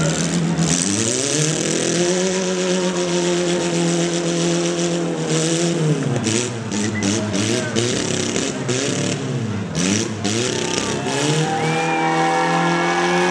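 Engines of two demolition-derby mini cars revving hard, locked together and pushing. The revs climb about a second in and hold high, waver and sag in the middle, then climb and hold again near the end.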